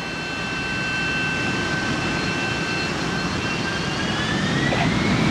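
Jet aircraft engine running, a steady rumble with a high whine that rises in pitch near the end as the sound grows louder.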